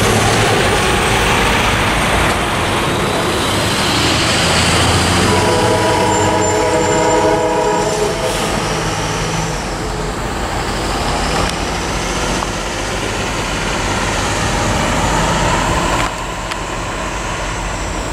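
The horn of a departing CSX freight train sounds one long blast in the distance, about five seconds in, over the steady rumble of the train rolling away, which drops off near the end. At the start a tractor-trailer drives across the crossing.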